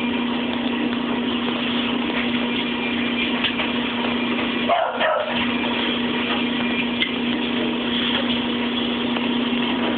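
Steady mechanical hum, a low drone with one strong tone, briefly dipping about halfway through.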